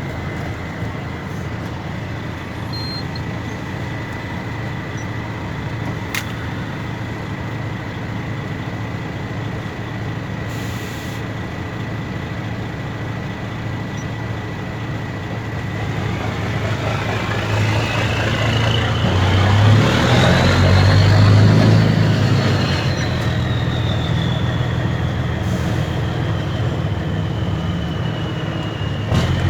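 Mercedes-Benz Actros 2636's V6 turbodiesel on an open exhaust, running steadily with a thin high whistle. About halfway through it is revved: the engine note and the whistle rise together to a peak, then ease back down.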